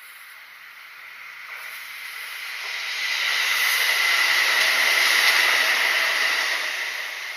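Kintetsu electric train passing by: its running noise on the rails swells over about three seconds, peaks in the middle, and starts to fade near the end, with a steady high whine running through it.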